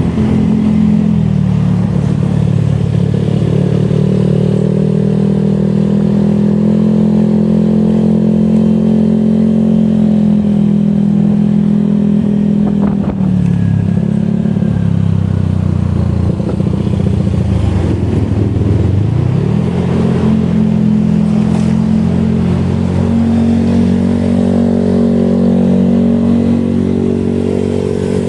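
Motorcycle engine heard from on board while riding, running at a steady pitch. Its pitch drops twice, around the middle and again a few seconds later as it slows, then rises as it speeds back up.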